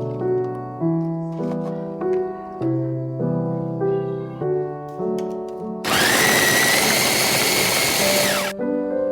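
Background piano music, and about six seconds in an electric food chopper runs for about two and a half seconds with a loud, steady high whine that drops in pitch as the motor stops, as it grinds the chilies, shallots and garlic.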